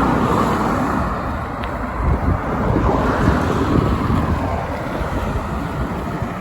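Wind buffeting the microphone of a rider on the move, a steady low rumble mixed with road and traffic noise.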